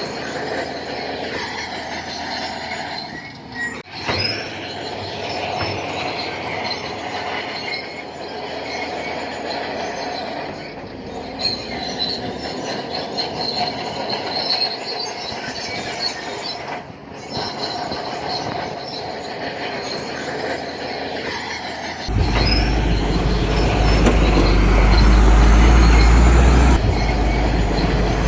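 Shantui crawler bulldozer running, its steel tracks squealing and clanking as it moves. About 22 seconds in, the sound jumps much louder with a heavy deep rumble.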